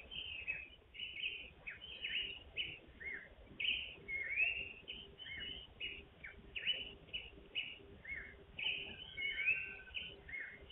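Birds chirping in a rapid, busy chorus of short high notes, some rising and some falling, several a second.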